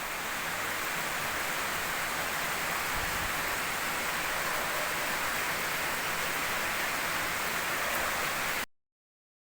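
Rain falling steadily, an even hiss that cuts off suddenly about a second before the end.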